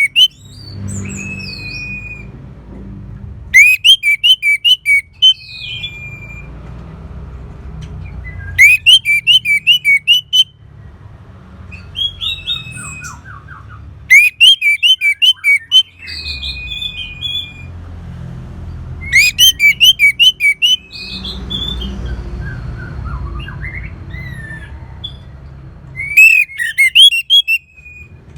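Orange-headed thrush singing: loud bursts of rapid high notes about every five seconds, with softer whistled notes between them over a low background noise.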